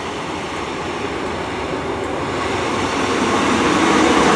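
Class 150 diesel multiple unit arriving at a station, its engine and wheel noise growing steadily louder as it draws in.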